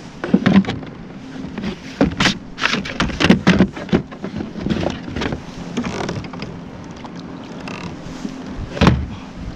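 Irregular knocks and clattering of gear and a fish being handled on a kayak, loudest in a cluster a couple of seconds in and one sharp knock near the end, over a steady low hum.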